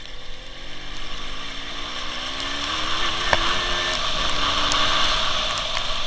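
WSK 175 motorcycle's single-cylinder two-stroke engine pulling up through the revs, its pitch rising for about three seconds and then levelling off, with one sharp click a little past the middle. Rushing wind noise grows louder as the bike speeds up.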